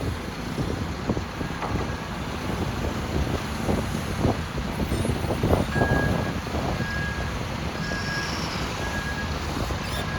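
LiuGong 950E hydraulic excavator's diesel engine running under load while digging overburden, with repeated clanks and knocks. About halfway in, a reversing alarm starts beeping about once a second.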